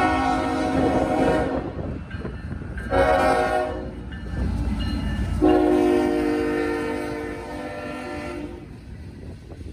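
Freight locomotive horn sounding three blasts over the rumble of the passing train: one ending about a second and a half in, a short blast about three seconds in, and a longer one from about five and a half to eight and a half seconds in, the last part of a grade-crossing signal.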